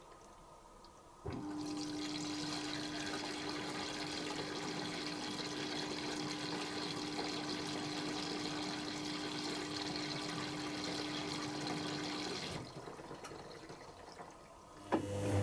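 Dyson Contrarotator CR01 washing machine taking in water through its inlet valve: a rush of water with a steady hum that starts suddenly about a second in and cuts off near the end.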